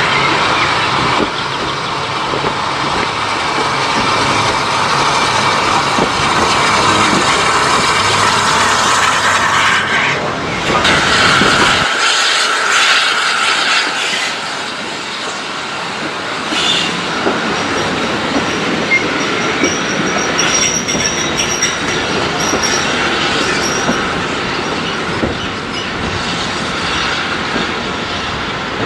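Steam-hauled passenger train on a heritage line, its coaches rolling past with wheels clattering over the rail joints and some wheel squeal. The low rumble drops away abruptly about twelve seconds in.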